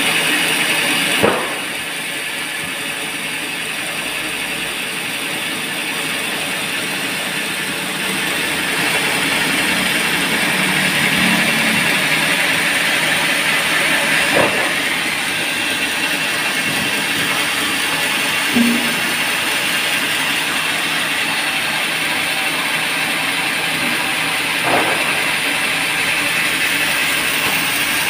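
Band sawmill running and sawing a teak log: a steady mechanical whir, with a few sharp knocks about a second in, near the middle and twice later.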